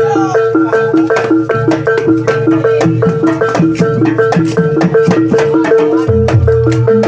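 Javanese gamelan music of the kind that accompanies an ebeg/jaranan trance dance. Mallet-struck keyed instruments play a fast, even, repeating figure of about four strikes a second over drums.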